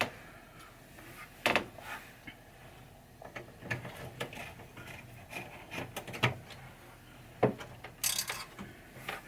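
Scattered clicks and knocks of metal parts and hand tools being handled inside a pinball machine during reassembly of the head mechanism, with a short rapid run of clicks near the end.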